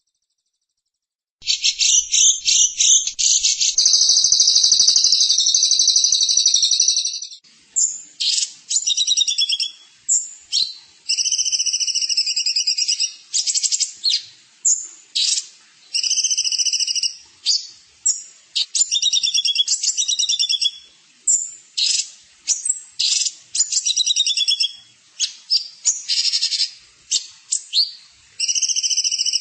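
A songbird singing close up, starting about a second and a half in with a long rapid high trill, then a string of short, varied high twittering phrases with brief pauses between them.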